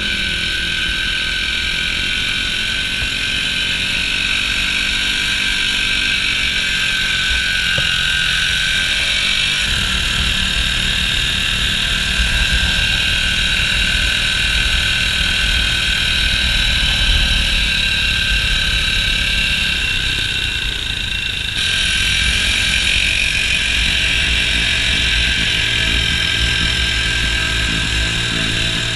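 Small mini bike engines running continuously, with steady engine noise. The sound changes abruptly about two-thirds of the way through.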